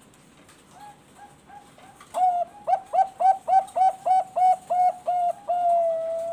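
Zebra dove (Thai-bred perkutut bangkok) singing. A few soft notes come first, then a fast run of about eleven loud, clipped coos that ends in one long drawn-out note.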